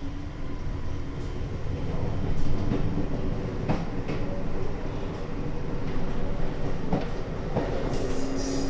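Ride noise of a JR Hokkaido electric train heard inside the car just after departure: a steady low rumble with a faint motor hum. A few sharp clacks of the wheels over rail joints come in the second half.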